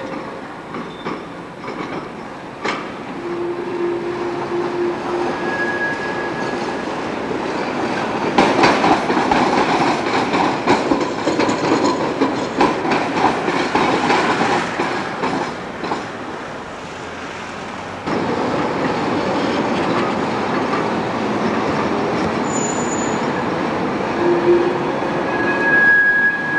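Electric tram running on street track: a steady rolling rumble with a rapid clatter of wheels over rail joints, loudest as it passes about a third of the way in. Short wheel squeals sound a few times.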